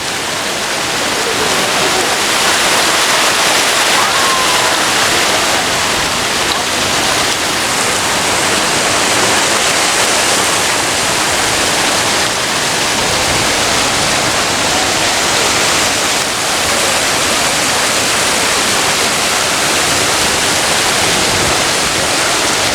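Steady rush of falling, splashing water, with no break or change.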